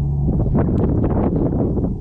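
Low rumbling wind noise on the microphone, with a gust starting about a third of a second in and easing off near the end. A faint short bird chip comes through the wind.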